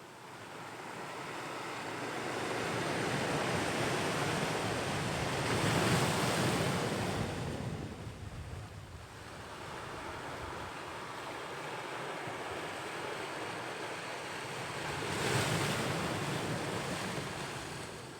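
Ocean waves breaking on the shore and washing back, the surf swelling to two louder breaks, about six seconds in and again near the end, with some wind on the microphone.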